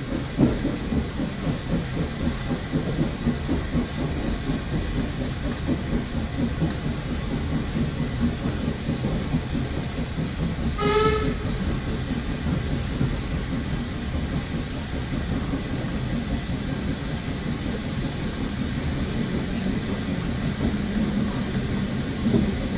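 Railway carriage in motion, heard from inside the coach: a steady rumble with rhythmic clatter of wheels over rail joints. About halfway through, the locomotive gives one short toot.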